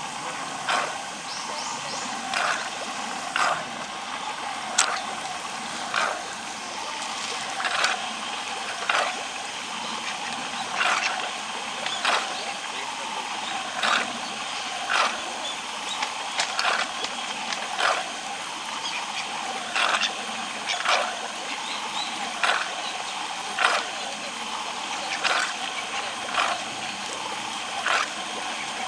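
A crowd of carp splashing and gulping at the water's surface as they crowd in for food, with short splashes about once or twice a second over a steady wash of churning water.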